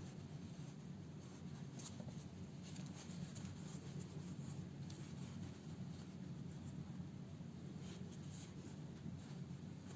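Faint scratching and rubbing of hand-sewing: a needle and thread being drawn through the fabric of a house slipper, with a few light clicks, over a low steady hum.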